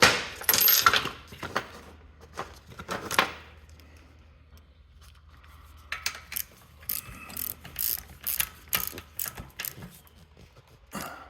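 Irregular metallic clicking and clanking of hand tools and exhaust parts being handled and fitted, in short bursts about a second apart, with a pause partway through.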